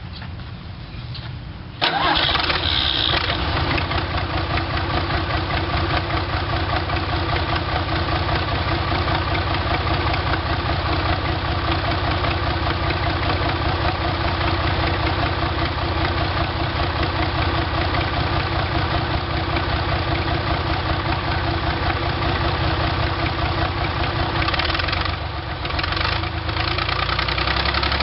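Deutz diesel engine in a Willys rat rod pickup starting up: it fires and catches about two seconds in, then settles into a steady run with a brief dip in level near the end. It runs a little off because its turbo is not yet hooked up.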